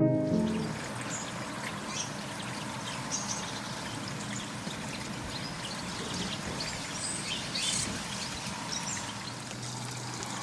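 Outdoor garden ambience: a steady soft hiss with short, high small-bird calls and chirps scattered throughout.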